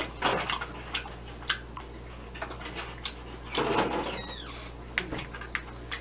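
Close-up chewing and mouth sounds of a man eating a piece of raw scallop sushi: scattered small wet clicks and smacks, with a brief louder rustle a little past halfway.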